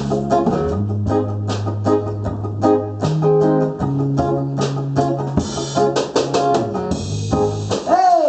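Live band playing an instrumental break: guitar and organ-like keyboard over bass and drums, with one note bending up and back down near the end.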